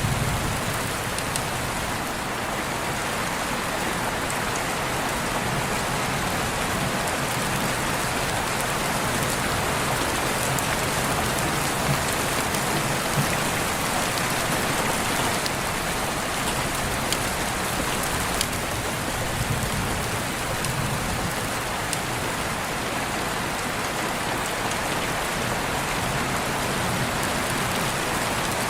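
Steady rain falling, with the patter of scattered individual drops striking a surface.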